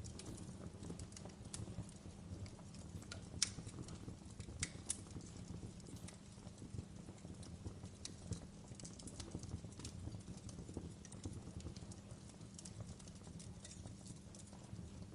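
Wood fire crackling in a fireplace: irregular sharp pops and snaps over a steady low rumble of burning, with one louder pop about three and a half seconds in.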